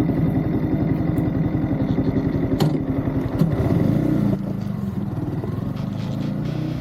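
Yamaha MT-15's single-cylinder engine running while the bike is ridden. A little past halfway the revs drop and the note settles lower.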